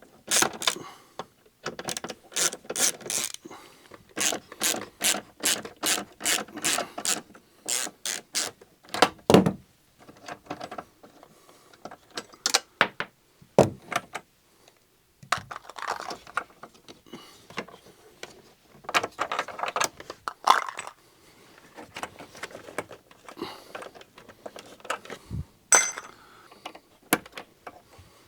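Hand ratchet clicking in quick runs, about three clicks a second, as the bolts holding a car seat's pan are undone. Scattered knocks and rubbing follow as the loosened seat pan is worked free.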